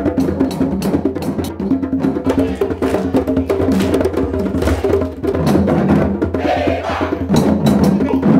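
A group playing African drums and percussion together in a busy rhythm of quick strikes.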